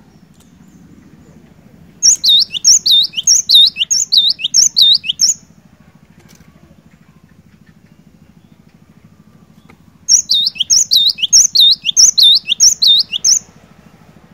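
Cinereous tit (glatik batu) singing two bursts of its ringing repeated phrase: a high note dropping into a lower swooping note, given about five times in quick succession. Each burst lasts about three seconds, with a pause of about five seconds between them.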